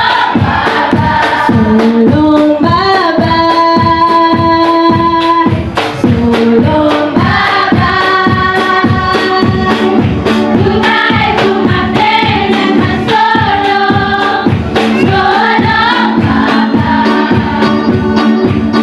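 Church choir singing a gospel song, mostly women's voices, over a steady drum beat of about two beats a second.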